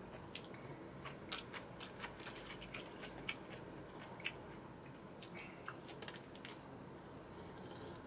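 Quiet eating sounds: scattered soft clicks and smacks of someone chewing food, at irregular intervals.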